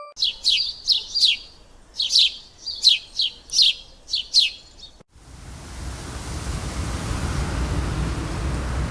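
A bird chirping in two quick runs of short, high, downward-sweeping notes. About five seconds in it is cut off by a steady rushing noise that slowly grows louder.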